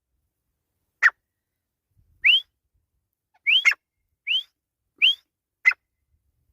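Grey francolin (desi teetar) calling: a series of short, sharp whistled notes, most of them quick upward slurs, with a few brief falling notes mixed in, about one call a second.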